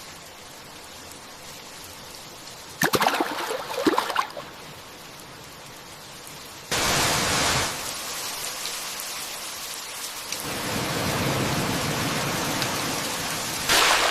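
Steady rain falling, with sharp cracks of thunder about three seconds in and again near the end. The rain suddenly grows heavier about halfway through, and a low rumble comes in during the last few seconds.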